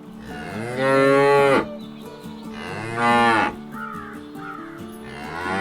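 Cattle mooing: three long moos, each rising and then falling in pitch. The last one starts near the end.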